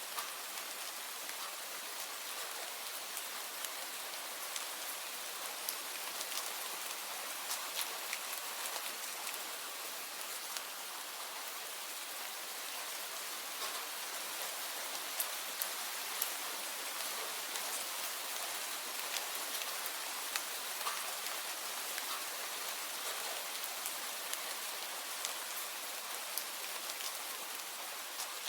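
Steady rain falling, an even hiss with scattered sharper drop ticks hitting a surface.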